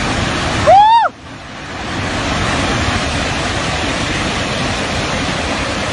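Steady loud rush of flowing floodwater, with one short shouted call about a second in, rising and then falling in pitch.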